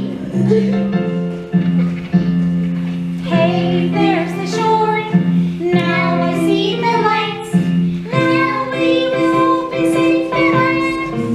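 Children singing an opera song over a recorded instrumental accompaniment; held accompaniment notes sound throughout, and the children's voices come in about three seconds in.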